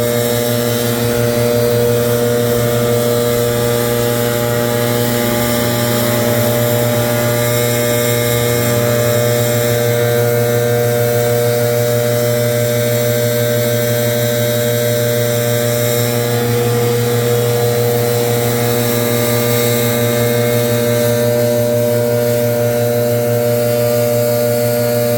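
Leaf blower running steadily and loudly.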